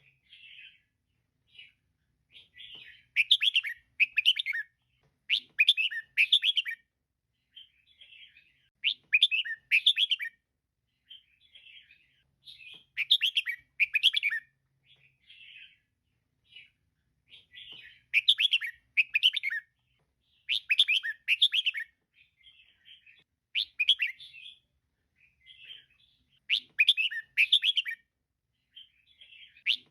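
Female red-whiskered bulbul calling: short bursts of quick, bright chirping notes, a louder phrase every two to three seconds with softer snatches between.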